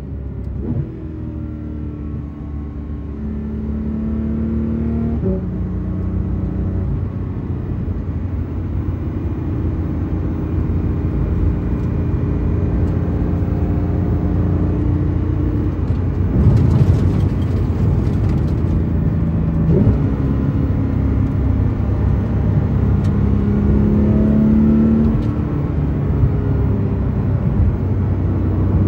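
Porsche 911 GT3 RS's naturally aspirated 4.0-litre flat-six, heard from inside the cabin as the car accelerates through the gears. The engine note climbs and then drops back sharply at each shift, about four times. About halfway, a few seconds of rushing noise rise over the engine.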